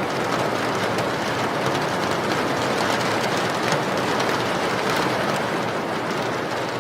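Steady rain: an even, unbroken hiss with scattered ticks of drops.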